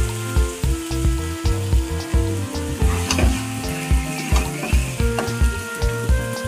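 Chicken curry with potatoes sizzling in a kadai as a metal spatula stirs and scrapes it, with scattered sharp scrapes. Background music with a steady beat plays under it.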